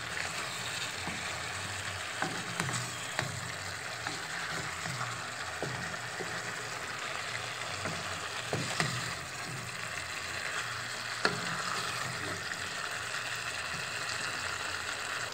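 Turkey pieces sizzling in hot oil with onion, green pepper and carrots in a pot, a steady frying hiss. A wooden spatula stirs them, knocking against the pot a few times.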